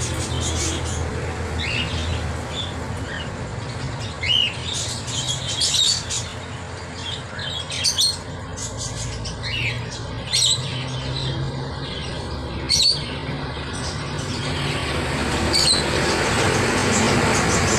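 Caged parrots chirping and squawking in short scattered calls, several of them loud, over a steady low hum.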